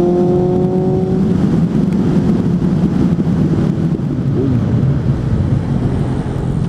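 Suzuki GSF 600 N's inline-four engine with an aftermarket exhaust, pulling with its note rising slowly for about the first second. The clear note then gives way to a rough, dense engine rush.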